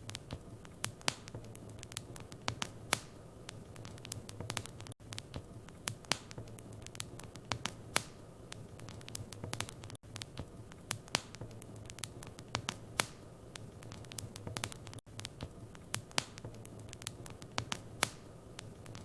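Wood fire in a fireplace crackling, with frequent irregular sharp pops over a low steady hum. A brief dropout every five seconds.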